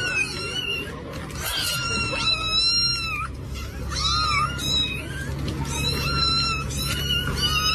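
Cat meowing repeatedly: a string of high-pitched, wavering calls, one held for about a second.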